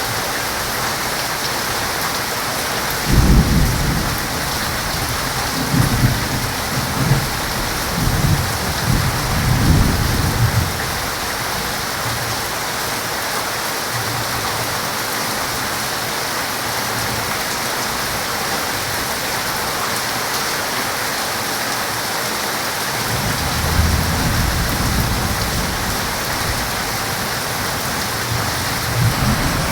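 Heavy rain falling steadily, with rolling thunder. A sharp clap about three seconds in rumbles on in waves for several seconds, and another long rumble builds near the end.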